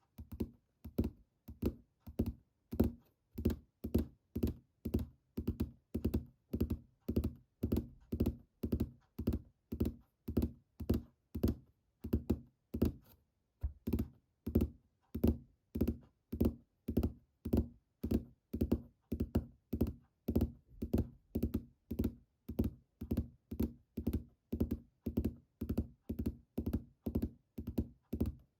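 Fingertips tapping steadily on a hard object, about two dull taps a second, with a brief pause about halfway through.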